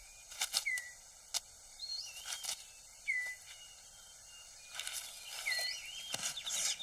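Dry leaves and twigs crackling and rustling on the forest floor as a male six-plumed bird of paradise (parotia) clears his display court, in scattered short clicks with a longer rustle near the end. A short whistled bird call sounds three times in the background, about two and a half seconds apart.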